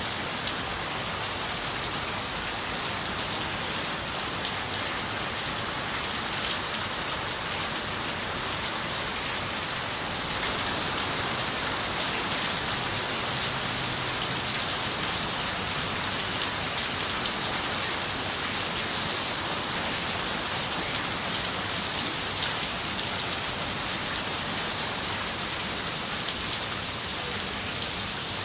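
Steady rain falling on a window, a dense even hiss with scattered individual drops ticking through it; it grows a little louder about ten seconds in.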